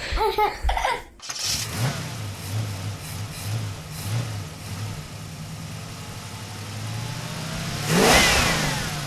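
A large engine idling with a lumpy, pulsing beat, then revving up loudly about eight seconds in before dropping back.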